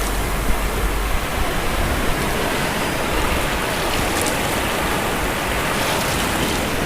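Ocean surf washing onto the shore as a steady, even rush of noise.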